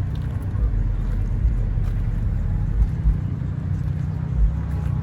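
Car engine idling with a steady deep rumble.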